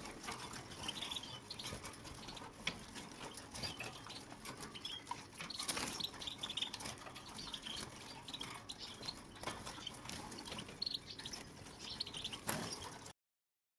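European goldfinches calling in short, high twittering chirps, with scattered sharp clicks among them. The sound cuts off suddenly near the end.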